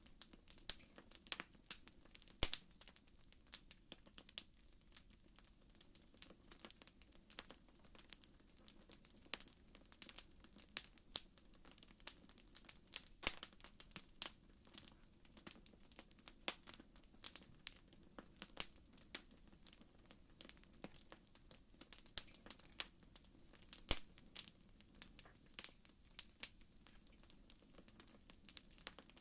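Campfire crackling: irregular sharp pops and snaps, several a second, over a faint low hiss.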